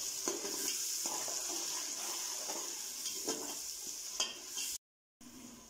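Onion, tomato and whole spices (cumin seeds, cinnamon) frying with a steady sizzle in hot oil in an aluminium pressure cooker, stirred with a metal slotted spoon that scrapes against the pot a few times. The sound cuts out briefly near the end, then the sizzle continues more quietly.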